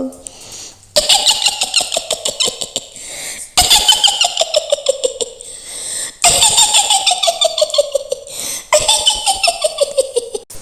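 A witch's high, cackling laugh in four long bouts of rapid laughter, each one falling in pitch, with a new bout starting about every two and a half seconds.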